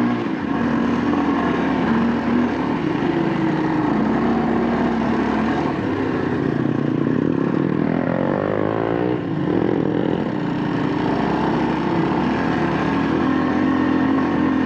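Kawasaki KLX230's single-cylinder four-stroke engine pulling up a steep climb, its pitch rising and falling with the throttle. About eight seconds in it revs up quickly and drops back a second or so later.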